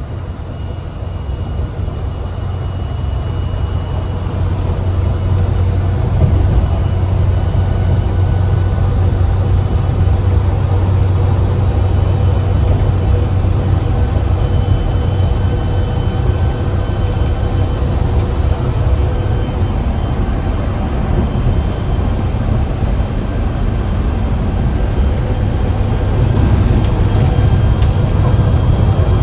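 Mercedes-Benz bus diesel engine running on the move, heard from inside the driver's cabin: a deep, low drone that gets louder over the first few seconds and then holds steady, with faint thin whining tones above it.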